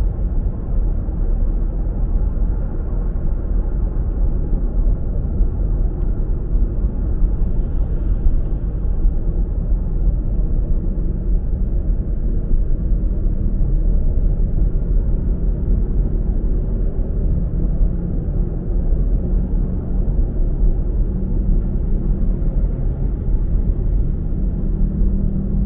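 Steady low rumble of a car driving on the road: tyre and engine noise with no sharp events.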